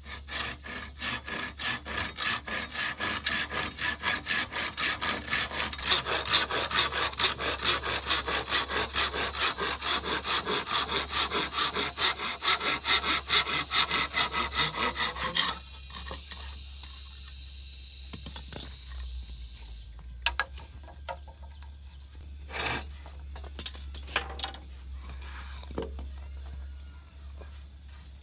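Hand saw cutting through wood with steady back-and-forth strokes, about three a second, that stop abruptly about halfway through; a few scattered knocks follow.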